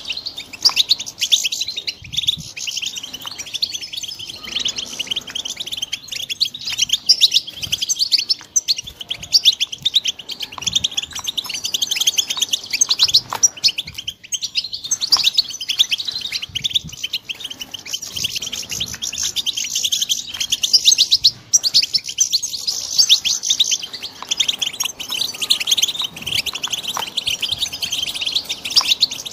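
Young European goldfinches chirping and twittering without a break, a dense run of quick high notes.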